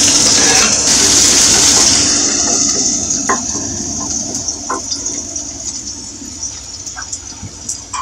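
Chopped shallots and garlic hitting hot oil in a pan: a loud sizzle that dies down over the first few seconds into a quieter sizzle with scattered crackles and pops.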